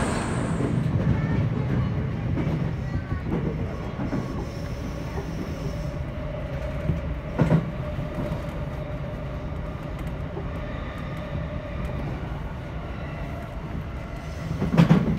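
Electric commuter train running on elevated track, heard from inside the cab area: a steady low rumble of wheels on rail with a faint whine in the middle, and two sharper rail-joint clacks, one about halfway through and one near the end.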